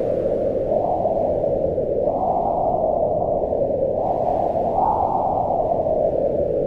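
Mountain wind howling, a steady rush whose pitch rises and falls in slow swells as the gusts come and go.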